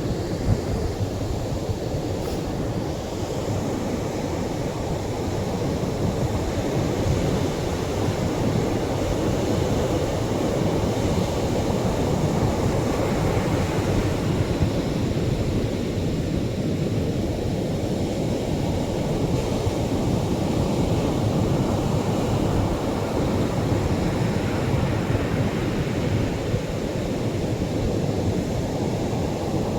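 Gentle Atlantic surf breaking at the shore of a beach: a continuous rushing wash that swells and eases slowly, dipping about halfway through before building again.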